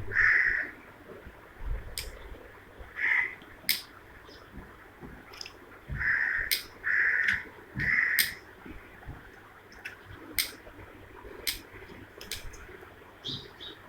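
Parrots giving short, harsh squawks, several in a loose series, with sharp clicks scattered between them.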